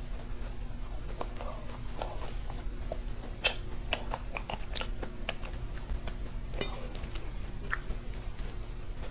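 A macaron being bitten and chewed close to the microphone: a scatter of short, crisp crackles from the meringue shell, thickest about halfway through.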